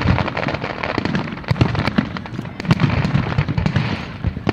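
Fireworks display: a dense, continuous run of bangs and crackling, several sharp reports a second over a low rumble.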